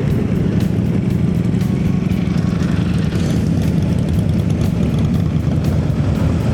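Motorcycle engine running steadily under way, most likely the Honda CB1100's inline-four, with wind noise on the microphone.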